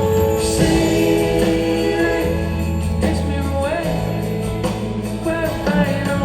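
Soft-rock band music with held, sustained chords and a bass line, with sung vocals and harmony voices over it. A sung note slides in pitch a little past the middle.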